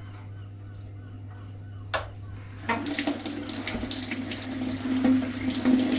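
Low steady hum and a click, then about two and a half seconds in a steady rush of flowing water starts suddenly with a low tone under it: an Ideal Logic boiler firing and running after a service, free of its earlier noise.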